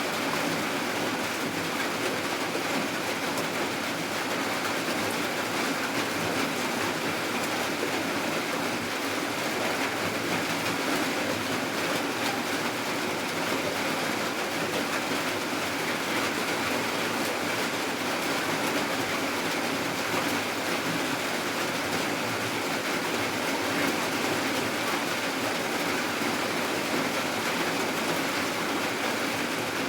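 Steady rain falling, an even unbroken hiss with no pauses or separate events.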